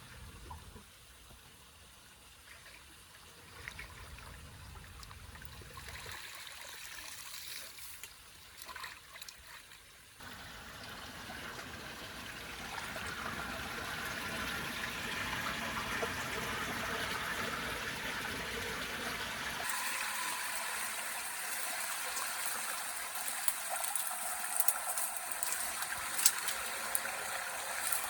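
Water flowing at a debris-clogged culvert drain, faint at first and growing to a steady run about ten seconds in, with a few sharp clicks near the end.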